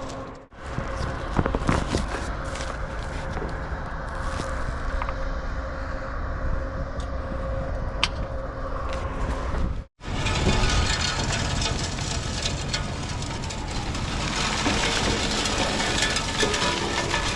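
SnowEx salt spreader running on a truck, its spinner throwing rock salt, over a steady motor and engine hum. The sound breaks off twice, and after the second break the gritty hiss of flung salt is louder.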